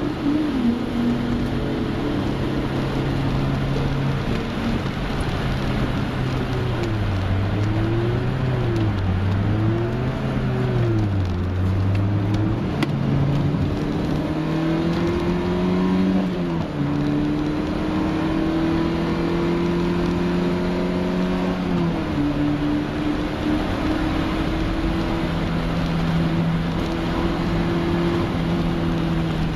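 Volkswagen Golf Mk1 Cabriolet's 1.8-litre fuel-injected inline-four, heard from inside the cabin, running hard on track. The revs dip and rise twice around the middle, then climb steadily through the second half with two sudden drops.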